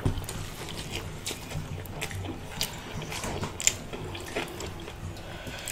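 Close-miked eating sounds: wet chewing and lip smacking of fried chicken and rice eaten by hand, a steady scatter of small sticky clicks.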